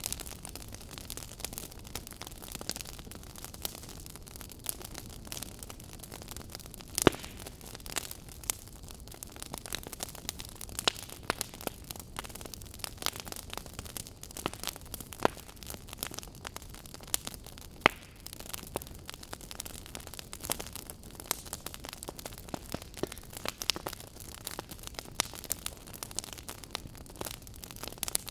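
Wood fire crackling: irregular sharp pops and snaps over a steady hiss, with a few louder snaps standing out.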